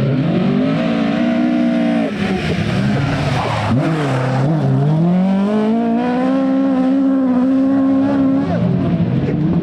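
Rally car engine under hard acceleration: the revs climb, drop sharply about two seconds in, dip and blip around four seconds in, then climb steadily again before falling off near the end.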